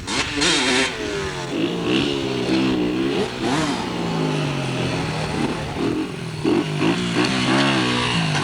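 Dirt bike engines running and revving, the pitch rising and falling over and over as the riders go on and off the throttle.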